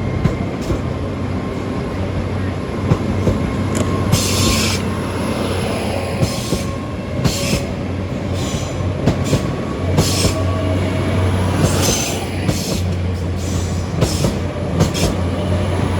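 Great Western Railway Class 800 IET train pulling out, its engines giving a steady low hum, with repeated short, high-pitched squeals from the wheels from about four seconds in.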